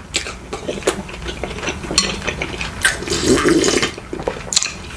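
Close-miked mukbang eating sounds: wet slurping of broth, with scattered clicks of utensils against a bowl.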